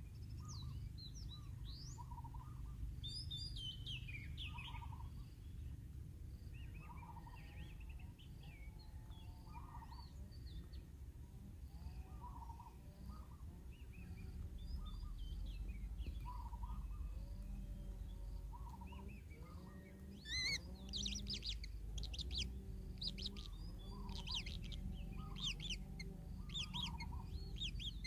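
Birds calling: a short, lower call repeats about once a second under scattered high chirps. About two-thirds of the way in, a burst of rapid high chirping starts and keeps going, the loudest part. A steady low rumble runs underneath.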